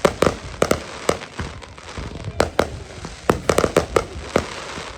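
Consumer fireworks going off: a rapid, irregular string of sharp bangs over a crackling haze.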